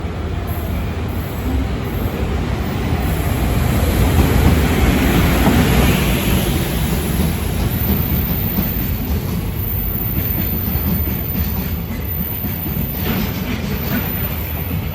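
Container freight train hauled by an EF510 electric locomotive running through without stopping, a steady rumble of wheels on rail that peaks about four to six seconds in.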